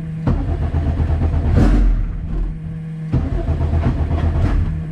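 Honda CRX engine running on E85 while its tune is adjusted, not yet holding a steady idle on its own: the engine speed shifts unevenly, with a brief rev about a second and a half in.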